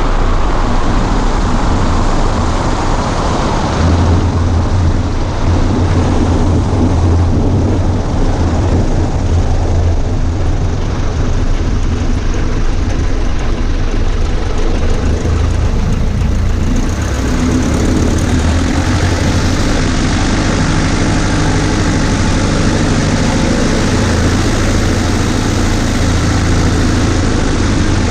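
Cessna 140A light aircraft's engine and propeller running steadily, with a low, even drone. The tone changes and grows brighter about seventeen seconds in.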